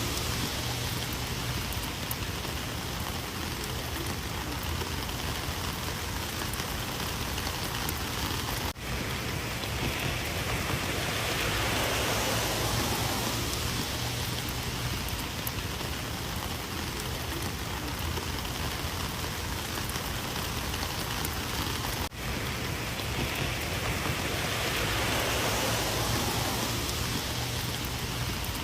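Steady rain falling, an even hiss of drops that swells a little now and then, with a momentary dip in the sound about nine seconds in and again about twenty-two seconds in.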